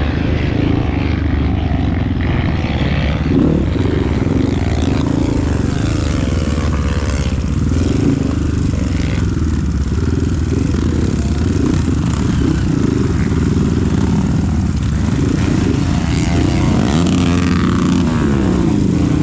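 Vehicle engine running continuously under way, its pitch rising and falling with the throttle.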